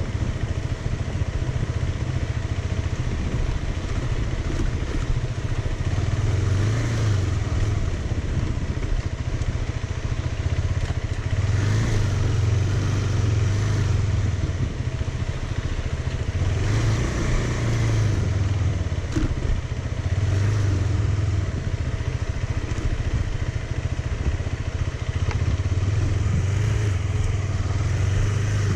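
Motorcycle engine running steadily as it is ridden, its note swelling and easing every few seconds, over continuous road noise.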